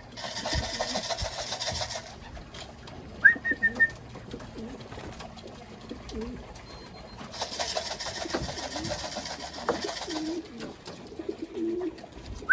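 Racing pigeons cooing, with two bursts of wing-flapping lasting a couple of seconds each. A quick run of three short, rising whistle notes comes about three seconds in.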